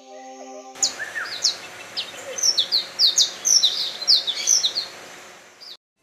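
Birds chirping: many short, high notes, each falling in pitch, repeated quickly over a steady hiss. They start about a second in and stop just before the end.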